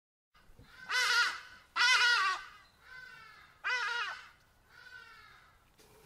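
A bird giving five harsh, wavering calls about a second apart, the third and fifth fainter than the rest.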